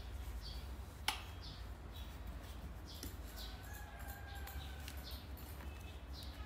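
Faint bird chirps, short and falling in pitch, repeating every second or so, with a single sharp click about a second in.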